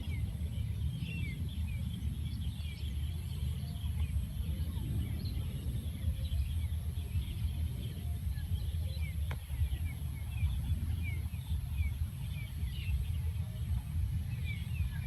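Small birds chirping over and over, short quick descending notes, over a steady low rumble.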